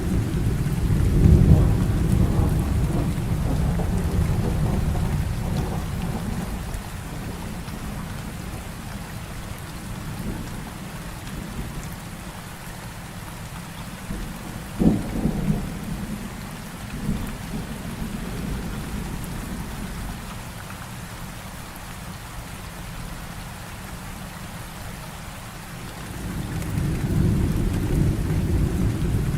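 Heavy rain falling steadily with thunder: a low rolling rumble that fades over the first several seconds, a sharp crack of thunder about halfway through, and rumbling building again near the end.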